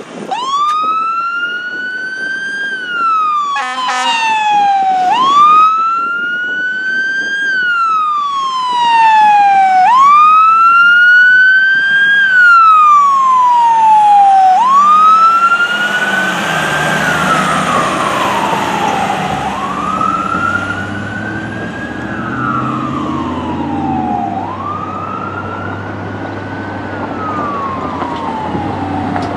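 Fire engine siren in a slow wail, rising and falling about every two and a half seconds, with a brief rapid warble about four seconds in. From about halfway a rumble and road noise grow louder beneath the wail.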